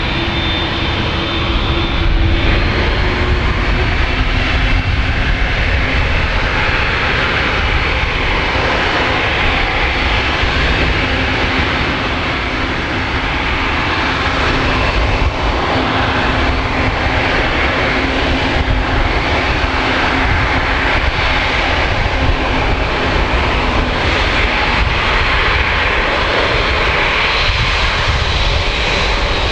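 Boeing 787-8 Dreamliner's GEnx-1B turbofan engines running at high power: a loud, steady jet roar with faint steady whining tones in it.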